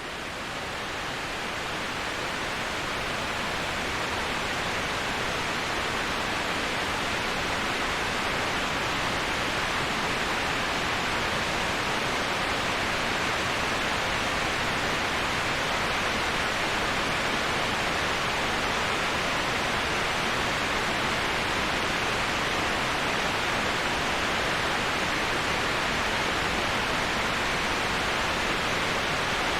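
Steady, even rush of a waterfall, swelling up over the first few seconds and then holding level.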